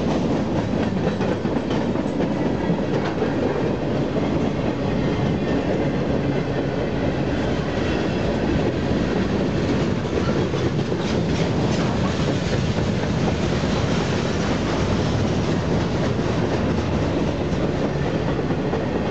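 Freight cars of a mixed freight train rolling past close by: a steady, loud rumble of wheels on rail with scattered clicks from the wheels over the track.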